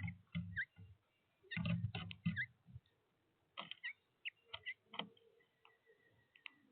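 Small birds chirping with short calls, with bursts of close knocking and scratching in the first three seconds and a few sharp clicks afterwards.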